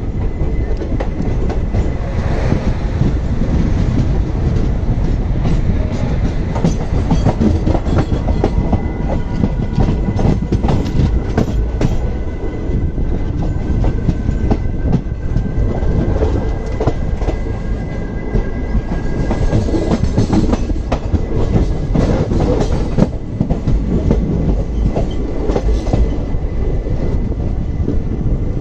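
Maharashtra Express passenger train running along the track: constant rumble with the clickety-clack of wheels over rail joints. A faint high whine rides over it through the middle stretch.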